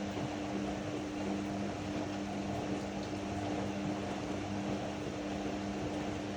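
Ariston AML125 washer-dryer running: a steady motor hum over a rushing noise, the hum cutting off at the very end.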